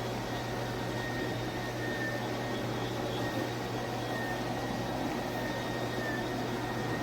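Cordless dual-motor electric spin mop running, a steady motor hum with a thin high whine over it.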